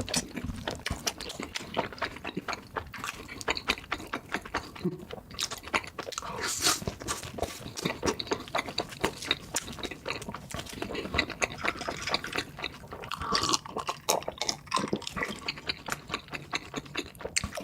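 Close-miked eating sounds: chewing, smacking and wet mouth noises as someone eats, a dense run of irregular clicks.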